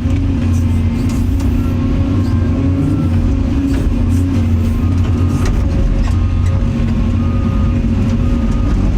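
Excavator diesel engine running steadily under working load as the machine works to clear stuck clay out of its bucket, with a few brief faint high tones over the low hum.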